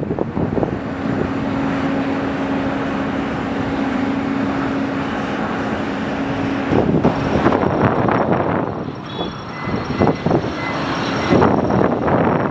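Aircraft engine noise at an airport: a steady rush with a held hum that cuts out about seven seconds in, while gusts of wind buffet the microphone in the later part.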